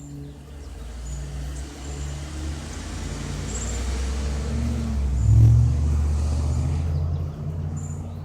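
Single-engine Cessna light aircraft passing over, its engine and propeller noise swelling to a peak about five seconds in and then fading away.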